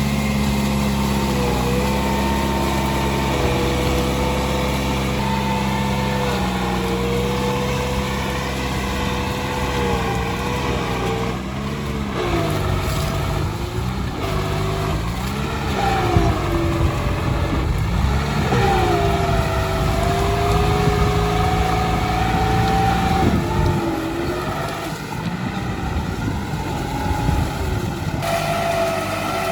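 Tractor engine running hard. Its pitch holds steady at first, then sags and recovers several times in the middle as the load comes and goes while it pushes through bushes. There are a few sharp knocks, the loudest about sixteen seconds in.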